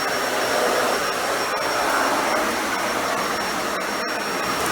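Dyson Ball Animal 2 upright vacuum running steadily, with a thin high whine over its suction noise. The brush bar is off because it will not run on this carpet.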